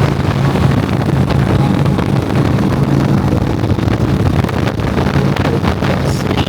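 Motorcycle riding at road speed: a steady engine drone with wind noise on the microphone.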